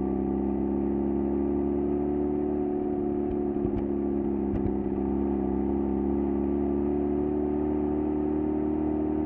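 Exhaust of a Mazda FD3S RX-7's twin-rotor 13B rotary engine, heard close up at the stock muffler, running at a steady, unchanging pitch with no revving.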